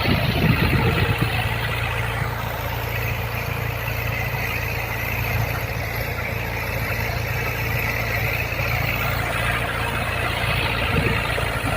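Diesel tractor engine running steadily under load while pulling a rotary tiller through field soil.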